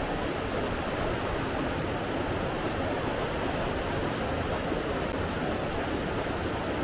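Steady rushing of running water, an even, unchanging wash of sound with no separate splashes or other events.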